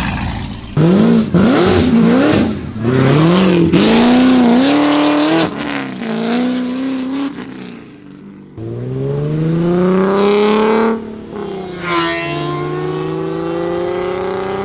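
Car engines accelerating hard away from a standstill. The first engine's pitch climbs and drops back several times as it shifts up through the gears. About eight and a half seconds in, a second long climbing pull follows, settling into a steadier engine note near the end.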